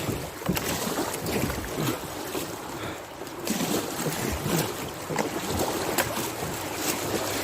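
River water rushing and splashing around a kayak heading into rapids, with a few sharp splashes or knocks scattered through it.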